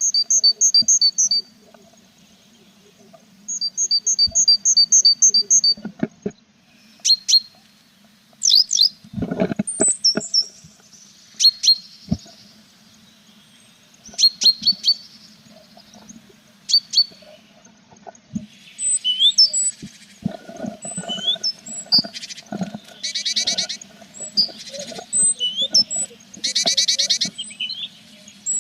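Tits chirping at a nest box, with runs of rapid high notes. There are a few knocks about a third of the way in, and bursts of dense buzzy begging calls from the nestlings near the end, all over a low steady hum.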